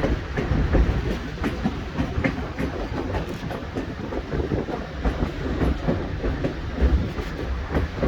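Narrow-gauge White Pass railway passenger car rolling along the track, heard from aboard: a steady low rumble with irregular clicking and knocking from the wheels on the rails.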